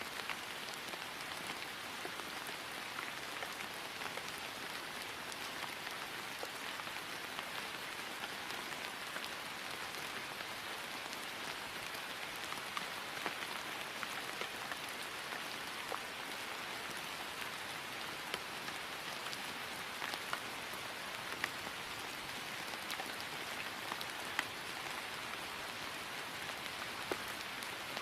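Steady rain falling on grass, an even hiss with scattered individual drop ticks.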